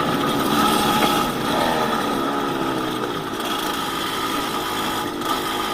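Yamaha DT200WR's two-stroke single-cylinder engine running while riding, its revs rising and falling.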